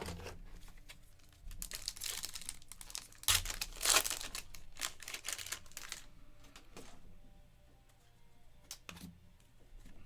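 Foil trading-card pack wrapper crinkling and tearing as a pack is ripped open, strongest from about a second and a half in to six seconds, then a few light clicks as the cards are handled.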